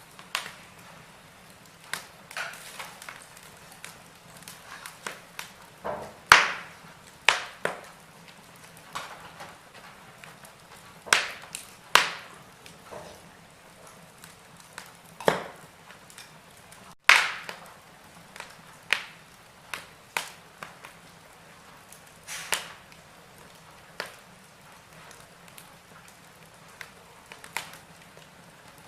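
Wood fire burning in a fireplace, crackling with irregular sharp pops and snaps over a faint hiss, the loudest snaps about six, twelve and seventeen seconds in.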